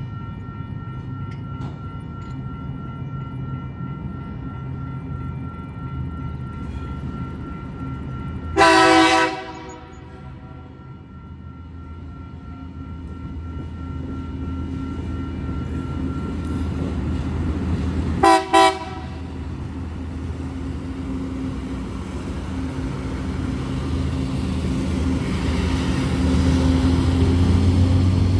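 TasRail diesel freight locomotives approaching and passing: one long air-horn blast about nine seconds in, two short toots about halfway, and the locomotives' engine rumble growing louder as they come close. Steady high ringing tones fill the first third, from the level crossing's warning bell.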